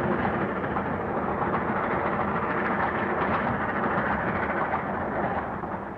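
Express train running at speed: a steady rumble and clatter of the carriage wheels on the rails, easing slightly near the end.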